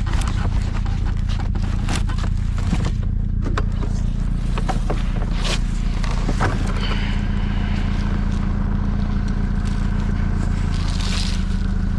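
A vehicle engine idling steadily, with scattered scrapes and clicks of handling over it; a faint steady whine joins about halfway through.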